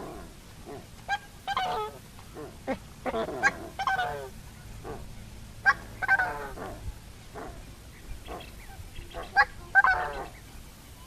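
Coscoroba swan calling: repeated honking calls, mostly a short note followed by a longer call, in about four bouts.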